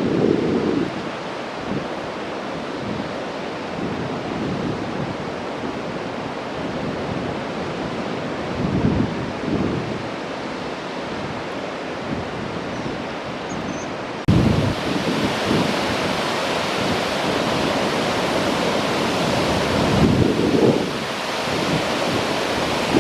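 Wind buffeting the microphone outdoors: a steady rushing hiss with low gusty thumps now and then. About 14 seconds in it changes abruptly to a louder, brighter rush.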